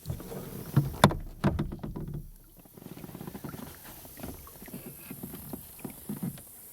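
Knocks and handling sounds on a Jackson Kilroy fishing kayak's hull: a sharp click about a second in and a few louder knocks, then a run of small irregular knocks.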